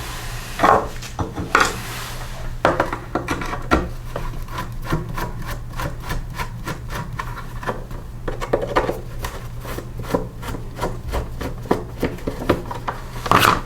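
Hand tool working screws out of a small engine's recoil starter cover: a run of repeated scraping clicks.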